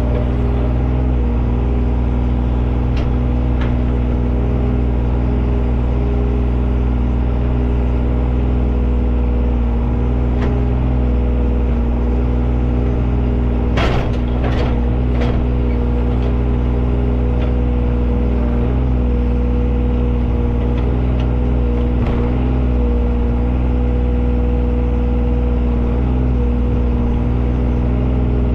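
An engine running steadily at a constant speed, with a few sharp clanks about halfway through.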